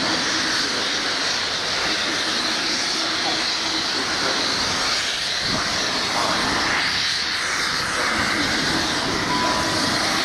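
Class 47 diesel locomotive running light with a steam locomotive coupled behind: a steady, loud engine noise with a strong hissing rush.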